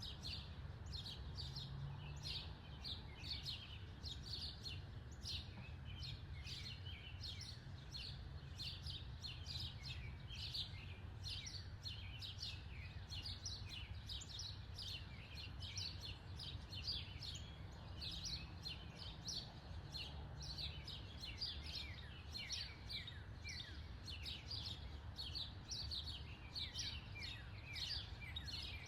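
Backyard birds chirping continuously, a dense run of quick down-slurred chirps several times a second, over a steady low background rumble.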